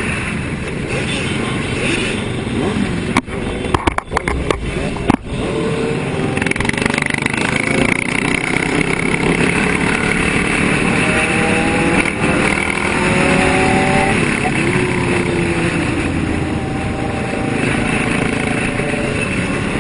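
Motorcycle engines running and revving, their pitch rising and falling, over a steady noisy background. A quick cluster of sharp knocks about three to five seconds in.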